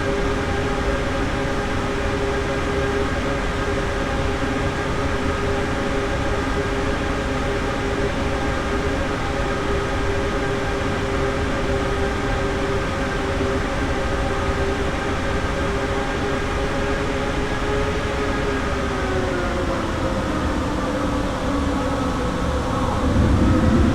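Airbus A321neo's Pratt & Whitney PW1100G geared turbofan engines running steadily with a whine of several pitched tones over a rushing noise. Nineteen or twenty seconds in, the tones fall as the engines spool down, then near the end they rise again as a loud low rumble comes in.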